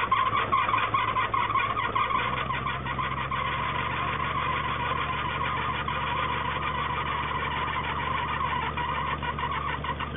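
Truck engine running as the truck pulls slowly forward, with a busy, rattling noise over it that has been called "a lot of noise". The engine's low note changes about two seconds in and then holds steady.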